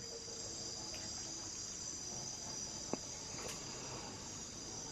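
Steady high-pitched chorus of rainforest insects, with one faint tick about three seconds in.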